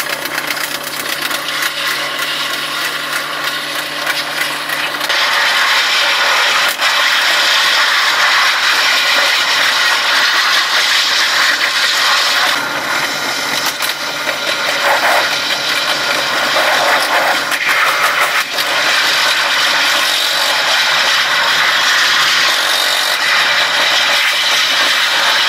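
A moving train's continuous rattle and clatter of wheels and carriage, with engine noise. A steady hum runs under it for about the first five seconds and comes back about halfway through.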